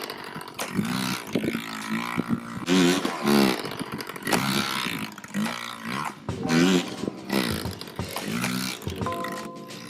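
Yamaha PW50's small two-stroke single-cylinder engine being ridden, revved up and backed off again and again, its pitch rising and falling over and over.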